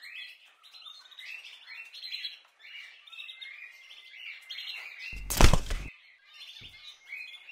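Small birds chirping over and over in quick short calls. About five seconds in comes a single loud rush of noise lasting under a second.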